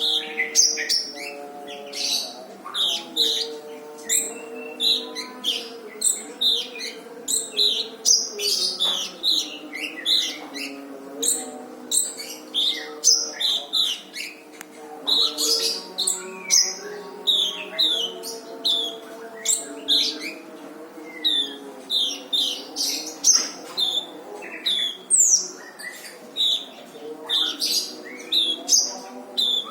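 Brown-throated sunbird (kolibri ninja) singing vigorously: a dense run of sharp, high chirps and short rough bursts, about two to three a second. Under it runs a low, steady humming tone.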